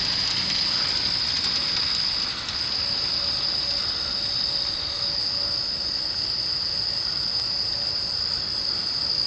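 Insects singing in a steady, unbroken, high-pitched chorus.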